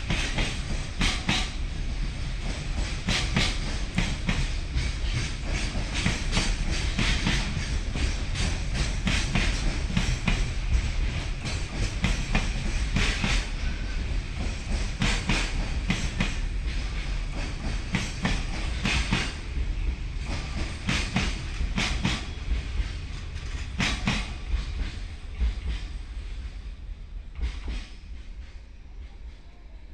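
Freight train's wagons rolling past, wheels clacking irregularly over the rail joints over a steady rumble, the sound dying away over the last few seconds as the train moves off.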